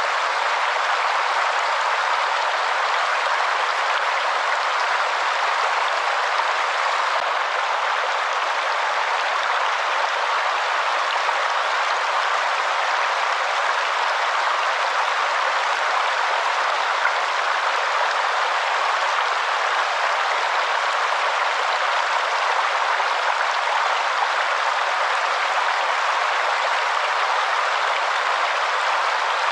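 Waterfall rushing in a steady, unbroken hiss, with no deep rumble underneath.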